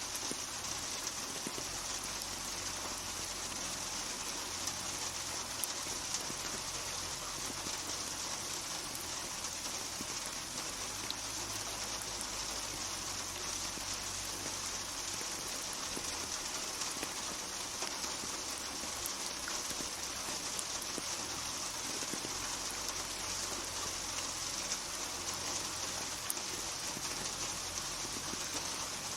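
Steady rainfall: a continuous even hiss of rain with scattered small drop ticks on hard surfaces.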